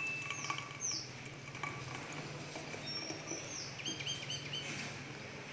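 Birds chirping: short, high calls that sweep downward, repeated several times, with a quick run of chirps about four seconds in. A faint steady low hum runs underneath.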